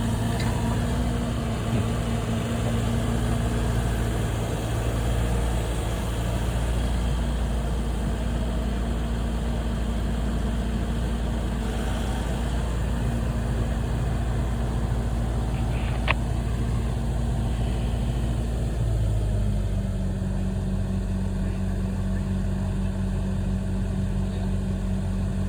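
Engine of heavy equipment running steadily at a constant speed, settling slightly lower in pitch about two-thirds of the way through. A single sharp click comes shortly before that.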